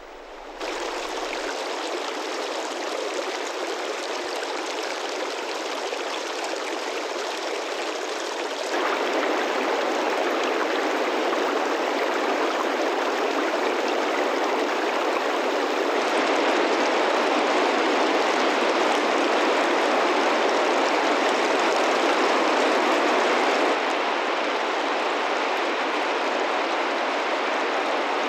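Meltwater-fed mountain river rushing steadily, its level stepping up or down sharply a few times.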